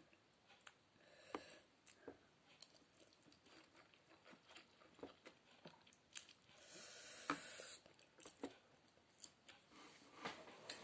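Faint close-up chewing and wet mouth clicks of a person eating noodle soup, with a short hiss about seven seconds in.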